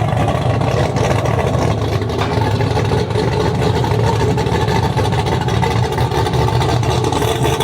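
A vehicle engine running steadily at low speed, a deep, even rumble.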